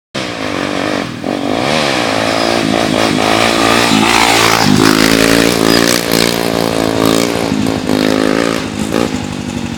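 Honda XR 250 Tornado's single-cylinder four-stroke engine revving up and easing off again and again, its pitch rising and falling, as the motorcycle is ridden in wheelies.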